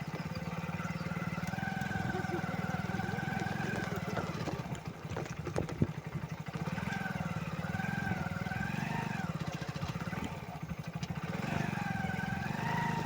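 Motorcycle engine running steadily with a fast pulsing note, easing off briefly about five seconds in and again near ten seconds. A separate wavering higher tone comes and goes over it.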